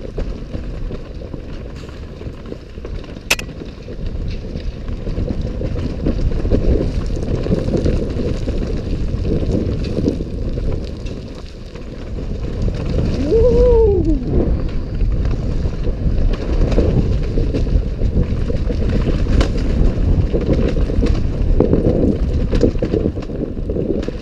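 Off-road ride over a rough forest trail: a steady rumble and rattle with wind on the microphone. A short tone rises and falls about halfway through.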